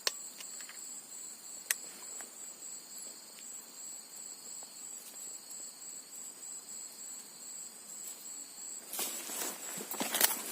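Insects trilling steadily in two high, even tones, the lower one stopping about nine seconds in. A couple of faint clicks near the start, and a short burst of louder rustling noise near the end.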